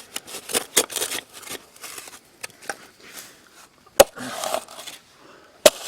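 Steel shovel scraping and jabbing into shale at the bottom of a post hole, with two sharp strikes of the blade on rock, one about four seconds in and one near the end.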